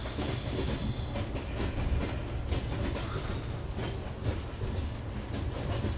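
Train car rolling slowly on its rails, heard from on board: a steady low rumble with irregular clicks and knocks.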